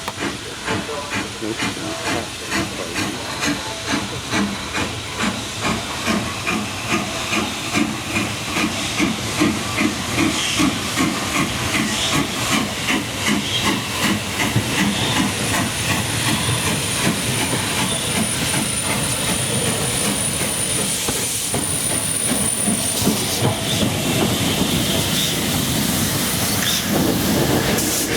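Two steam locomotives working a double-headed train, the LB&SCR H2 Atlantic No 32424 Beachy Head leading the LNER A1 Pacific No 60163 Tornado, as the train arrives. Their exhaust beats come at about two a second and grow louder, then give way about halfway through to a steady hiss of steam with a thin high whine.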